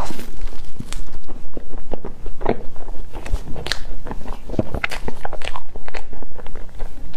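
Close-miked eating of a soft, cream-filled crepe cake: a large bite, then wet, sticky chewing and lip smacks, heard as many irregular sharp clicks.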